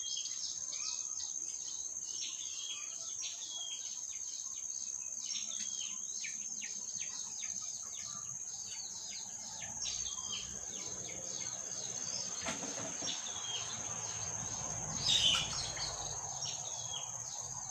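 Fledgling bird chirping over and over in short, rapid calls, over a steady high-pitched insect drone. A brief louder noise breaks in near the end.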